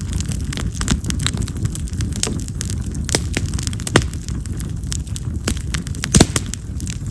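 Wild mountain cherry (yamazakura) firewood burning in an open fire, crackling with many sharp pops, some loud, like firecrackers. The loudest pops come about four seconds in and again near the end, over a low steady rumble.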